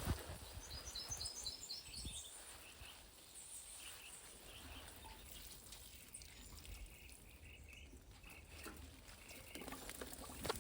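Quiet outdoor ambience with a bird chirping: a quick run of about five high chirps in the first two seconds, then softer scattered chirps.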